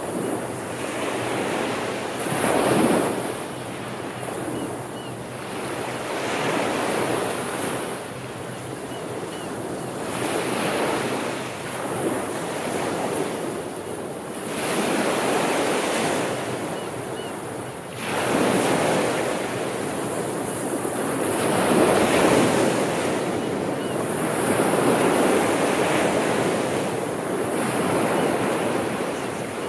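Sea waves breaking and washing on the shore, the surf swelling and ebbing every few seconds, with a stronger surge about 18 seconds in.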